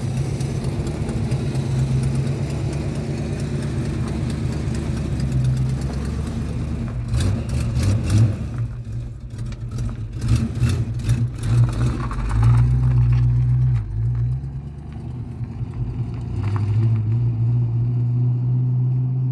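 Fox-body Ford Mustang 5.0 V8 running and being revved, its low exhaust note rising and falling several times.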